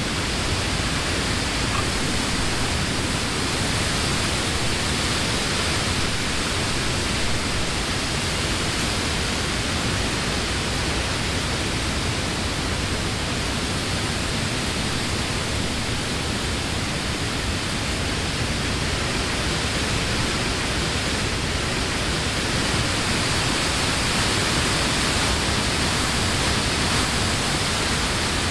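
Steady wind rushing through the leaves of trees, a continuous even hiss that swells slightly and eases in slow gusts.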